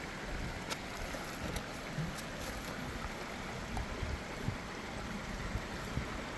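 Small mountain stream's water running steadily, with a few faint ticks.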